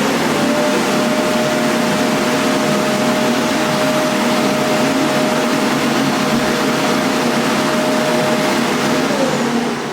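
Xiaomi Mi Robot Vacuum-Mop 2 Ultra's suction motor running at high power: a loud, steady rush of air with a whine that climbs to a fixed pitch at the start. Near the end the whine drops in pitch as the motor slows.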